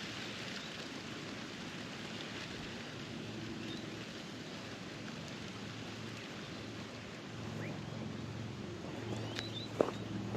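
Steady outdoor background hiss with a faint low engine hum coming and going in the distance, and a single sharp tap near the end.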